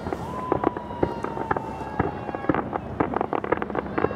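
Aerial fireworks bursting in quick succession, with many sharp cracks and bangs. A long whistle slides slightly down in pitch for about two seconds.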